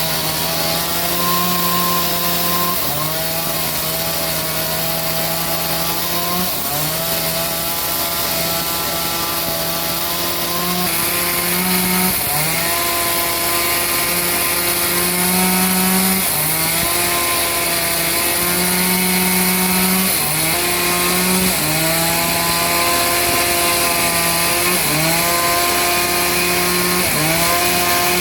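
Sawmill saw running through a large trembesi (rain tree) log: a steady, loud machine hum whose pitch dips and recovers every few seconds, over a constant cutting hiss.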